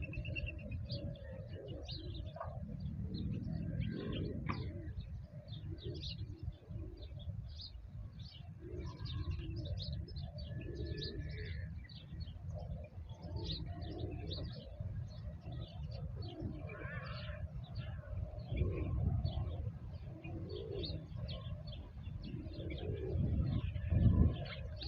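Birdsong outdoors: doves cooing over and over while small birds chirp quickly and continually, over a steady low rumble that swells near the end.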